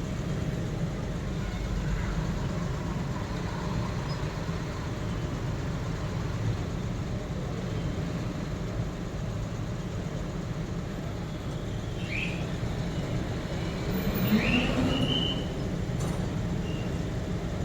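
Steady low rumble of a car and its surroundings, heard from inside the car, with a couple of brief faint sounds about twelve and fourteen seconds in.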